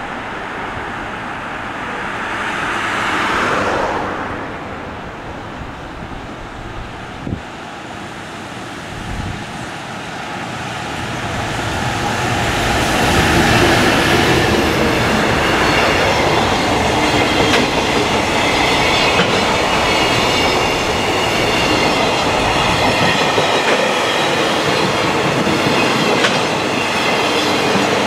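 Container freight train hauled by a JR Freight EF210 electric locomotive. It is heard approaching, grows loud as the locomotive passes about halfway through, then its container wagons roll steadily by, with a high ringing tone over the rumble of the wheels.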